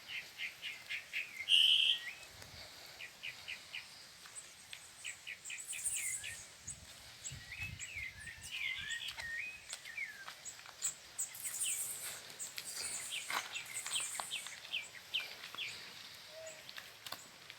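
Several birds chirping and calling: runs of short, rapid, high chirps, with some warbled call notes in the middle.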